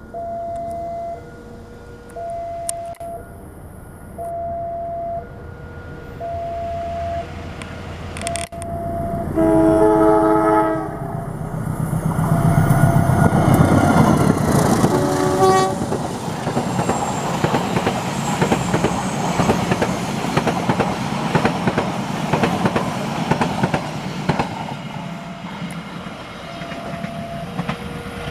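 Railway level-crossing alarm sounding two alternating tones, about one a second. About nine seconds in, a train horn blows a long blast and again briefly a few seconds later, then the train passes with its wheels clattering over the rails. The crossing alarm's tones come back near the end.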